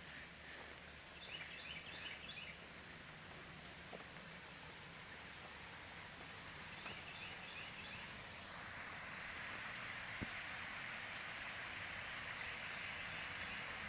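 Rushing water from a rain-swollen creek, a steady hiss that grows louder about eight seconds in, under a constant high-pitched drone of insects. Two short runs of quick chirps come about a second in and again about seven seconds in.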